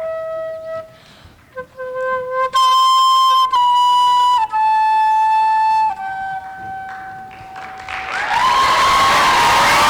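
A solo flute plays a slow melody of single held notes, ending on a long held note that fades. About eight seconds in, the audience breaks into loud applause with cheers.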